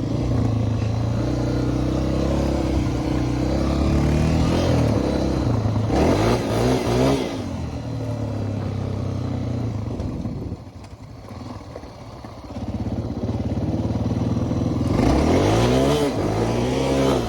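Small dirt bike engine under throttle, revving up and down as it is ridden. The revs climb sharply about six seconds in and again near the end, with a quieter stretch off the throttle around ten to twelve seconds in.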